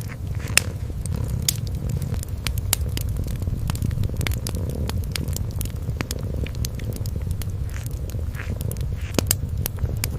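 Kitten purring in a steady, low, continuous rumble, with irregular sharp crackles from a wood fire scattered over it.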